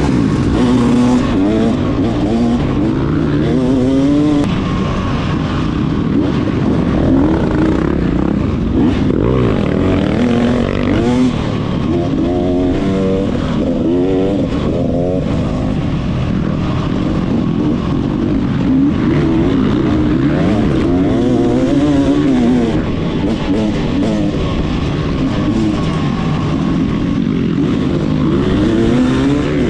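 Motocross bike engine revving up and down over and over as it is ridden hard around a dirt track, with the pitch climbing and dropping every second or two.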